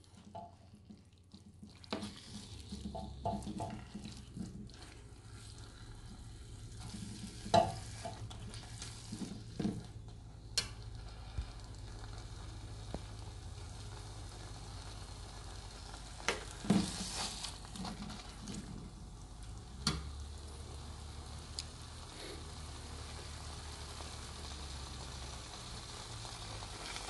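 Fish cake and kimchi sizzling as they are stir-fried in a nonstick pan, with a metal spoon scraping and knocking against the pan now and then.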